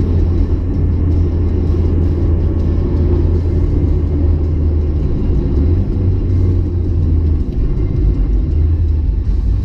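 Car engine running steadily with a continuous low drone, no revving.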